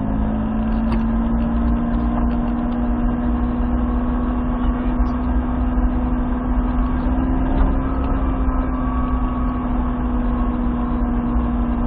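Toyota Supra's engine pulling at a steady, nearly constant pitch under light throttle, with low road and drivetrain rumble, heard from inside the car.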